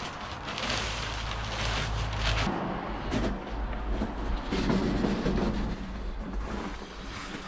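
Sand being poured out of a bag and spread by hand on a bench: uneven rough hissing and scraping in several short bursts, over a steady low rumble.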